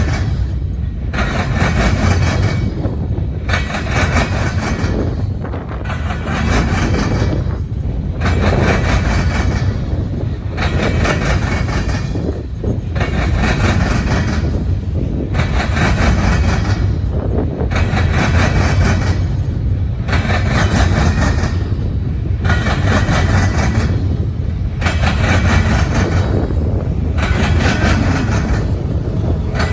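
Freight train rolling past: a steady low rumble, with a rhythmic rush of wheel noise that repeats a little less than once a second as the cars go by.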